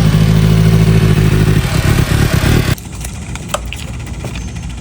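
Motorcycle engine running steadily close by, then turning ragged about two seconds in. Near three seconds it drops away suddenly to a much quieter low rumble.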